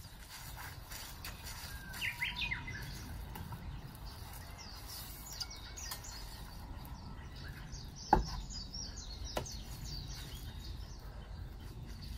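Small birds chirping, many short high calls throughout, with a run of lower calls about two seconds in. A single sharp knock about eight seconds in, and a lighter one a second later.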